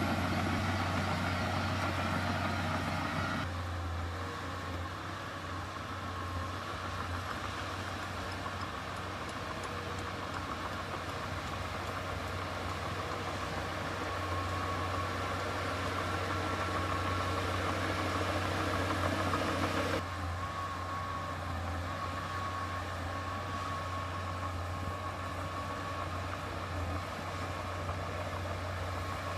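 Heavy diesel engine of earthmoving machinery running steadily with a low hum. The sound changes abruptly a few seconds in and again about two-thirds of the way through.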